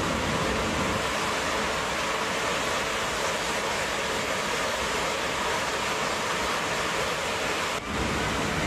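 Steady, loud rushing roar of air, like the noise inside an airliner cabin. It drops out for a moment near the end, then carries on.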